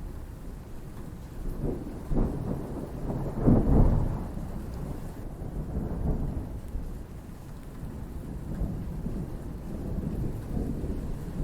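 Thunder rolling over steady rain: a deep rumble builds over a couple of seconds to its loudest about three to four seconds in, then dies back to lower rumbles that return later.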